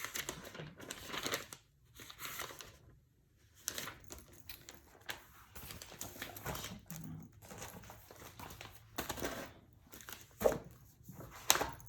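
Paper rustling and crinkling as sheets are handled and shuffled, in irregular bursts, with two sharp taps near the end.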